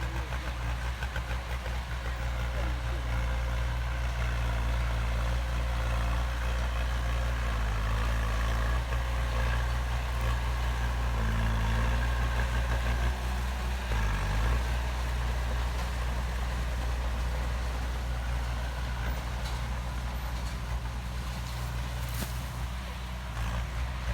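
Heavy diesel engine of an earthmoving machine running steadily with a deep, low drone, swelling a little in the middle.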